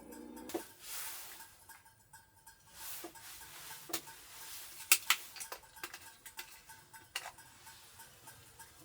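Small objects being handled: scattered sharp clicks and light knocks, the loudest a close pair about five seconds in, between soft rustling swells.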